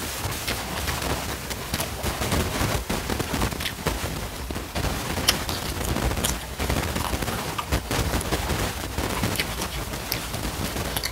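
Close-miked chewing and crunching of fried salted gourami fish with rice, a dense run of crackly mouth clicks and sharp crunches, with fingers working the rice.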